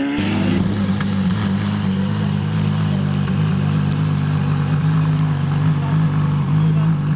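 A car engine running steadily at low, even revs, with a brief rise in pitch right at the start.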